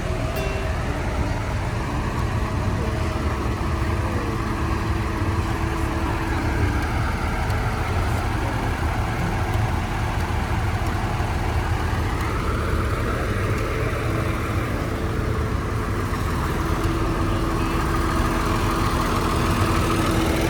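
Tractor engines running steadily as a procession of tractors drives slowly past.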